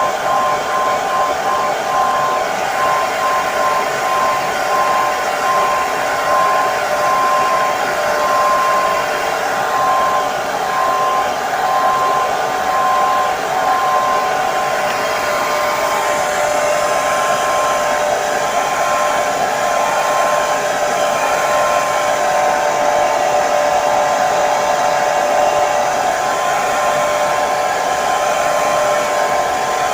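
Hair dryer running steadily: a continuous rush of air with a steady whine from the motor. The whine shifts slightly about halfway through.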